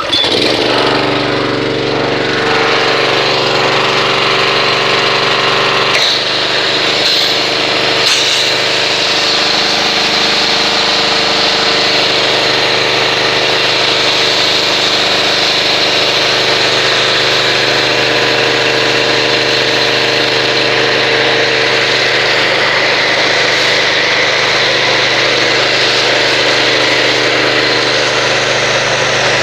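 Pressure washer starting abruptly and running steadily while it drives a foam cannon, with a spray hiss over the motor. The low part of the motor's note changes about six seconds in.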